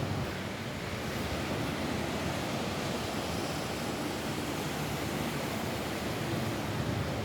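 Rain falling steadily on a roof, an even rushing hiss without letup.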